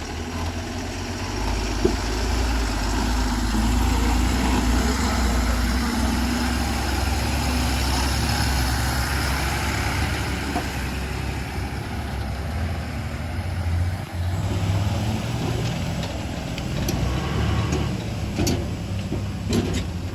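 Heavy diesel engine running steadily under load, with a few sharp knocks near the end.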